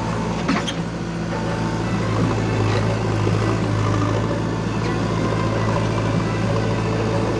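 JCB backhoe loader's diesel engine running steadily with a deep, even hum, with a few light clicks about half a second in.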